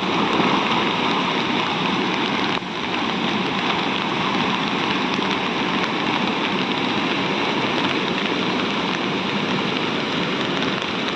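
A steady rushing noise of water, with a slight drop in level a little over two seconds in.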